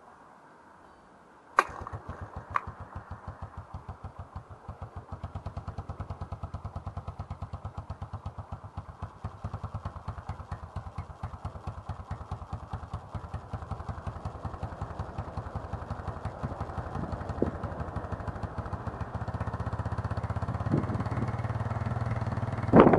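Cold start of a Honda TRX200SX quad's single-cylinder engine: after a sharp click about a second and a half in, it catches and runs at a low, even idle in rapid regular firing pulses, growing slowly louder. A loud burst comes right at the end.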